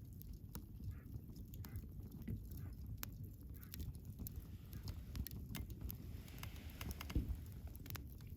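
Wood campfire crackling, with scattered sharp pops over a low steady rumble and one louder low thump about seven seconds in.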